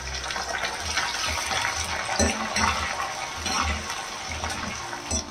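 Curry leaves, ginger and green chillies sizzling in hot sesame oil in an aluminium kadai, with a steel spoon stirring and scraping against the pan.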